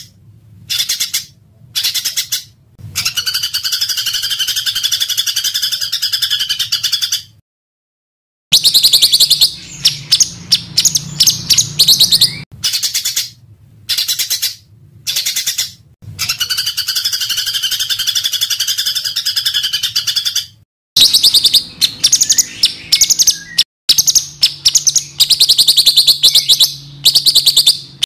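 Small songbirds calling in harsh, rapid bursts: fast strings of chirps alternating with long buzzy, rattling trills. The recording is cut into short, abruptly edited segments with sudden gaps, one of them about a second of silence a third of the way through.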